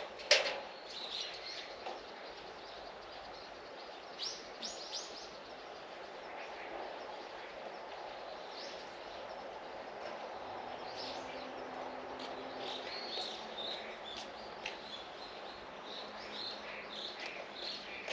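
Small birds chirping intermittently, short high calls scattered throughout, over a steady faint background hum. One sharp, louder sound comes right at the start.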